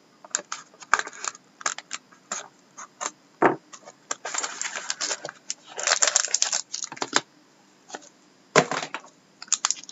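Hands opening a sealed trading card box and handling the cards: irregular clicks and snaps, with a few longer rustling stretches.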